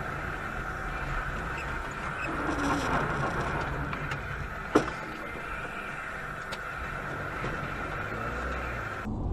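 Car driving, with steady engine and road noise heard from inside the cabin. A single sharp click sounds about halfway through.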